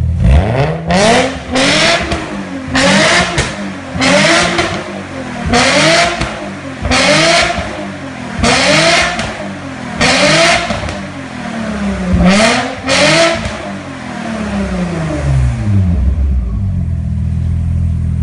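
Transplanted 3.0-litre 24-valve Busso V6 in an Alfa Romeo Giulietta, blipped from idle. It revs up and drops back about ten times, roughly every second and a half, then settles back to a steady idle near the end.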